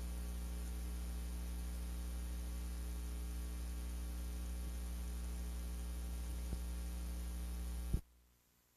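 Steady electrical mains hum with a faint hiss on the recording. It cuts off with a click about eight seconds in, leaving near silence.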